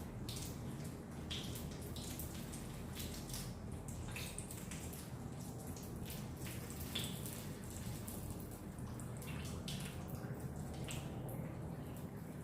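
Chicken pieces frying in hot oil: a steady sizzle with scattered crackles and pops.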